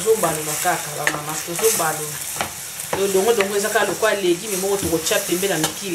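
Sliced okra, onion and tomato frying in oil in a stainless steel pan, sizzling while a wooden spoon stirs and scrapes through it. A person's voice is heard alongside.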